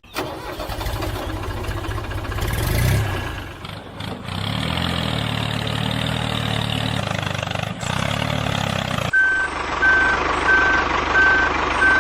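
Vehicle engine running with a steady hum, then a reversing beeper from about nine seconds in, about three beeps every two seconds.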